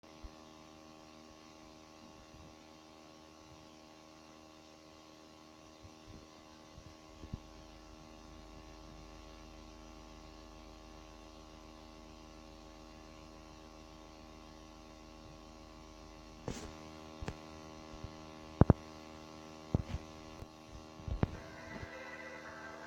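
Steady electrical hum with many even overtones. In the last third it is joined by a scatter of sharp clicks and knocks, one much louder than the rest.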